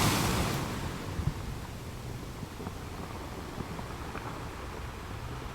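Ocean waves breaking on a beach: a wash of surf that fades over the first second or so, then a steady hiss of surf.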